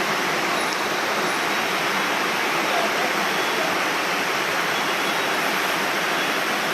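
Mountain stream water rushing steadily, an even hiss of flowing water with no breaks.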